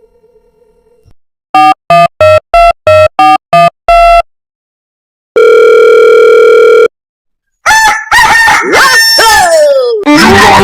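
A string of eight short electronic beeps, then a long steady beep, then a rooster crowing near the end.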